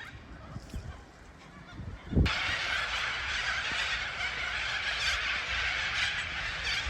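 Birds calling, goose-like honking; about two seconds in the sound jumps suddenly to a louder, dense chorus of calls.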